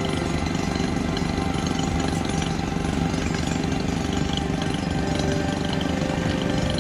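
Liugong excavator's diesel engine running steadily under working load, a dense rattling rumble with steady tones over it.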